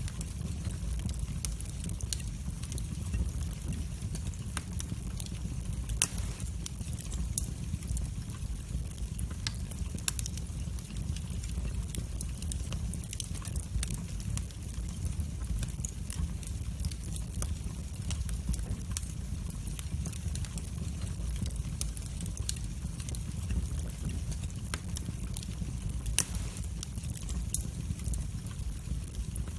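Wood fire burning in a fireplace: a steady low rumble of flames with scattered crackles and pops. Two pops stand out, one about six seconds in and one a few seconds before the end.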